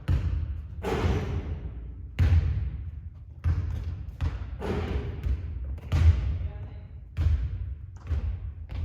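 Basketball thudding on a hard court again and again, a sharp bounce about once a second.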